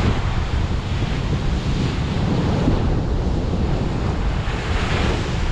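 Large North Sea waves breaking and washing up the beach, with heavy wind buffeting the microphone. A wave surges up louder near the end.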